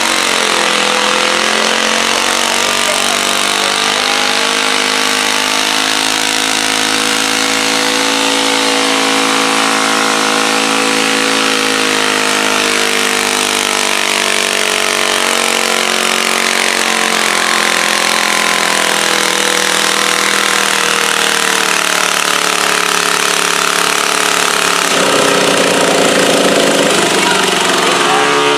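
Pulling garden tractor's engine running hard at high revs throughout. Its pitch dips about a second in, holds, then shifts again near the end.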